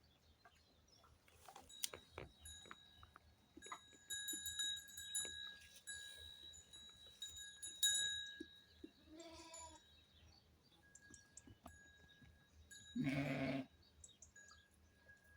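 A goat bleats once, loudly, about 13 seconds in, after a fainter call a few seconds earlier. Earlier there is a bell-like ringing and scattered light clicks.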